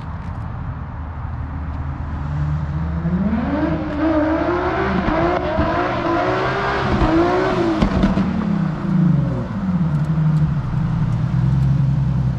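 Nissan 350Z's VQ35HR V6 revving hard in several surges while being driven around the lot, the revs climbing, bouncing up and down, then falling back to a steady idle near the end.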